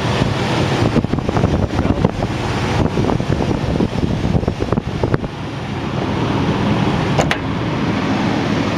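2005 Jeep Wrangler's 4.0-litre inline-six engine idling steadily just after a cold start, heard as an even rushing whir over a low hum. Scattered short clicks come and go in the first five seconds.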